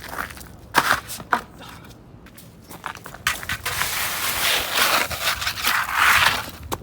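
Two sharp board knocks, then a skateboard sliding and scraping through wet snow for about three seconds, a rough hiss that grows louder toward the end.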